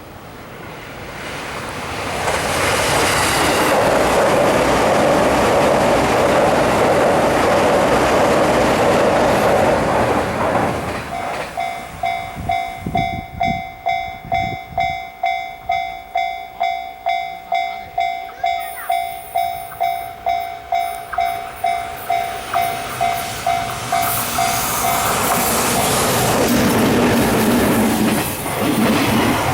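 An electric train passes with a loud rush of wheel and rail noise. As it fades, a Japanese level-crossing warning bell rings steadily at about two strokes a second, then stops near the end as train noise rises again.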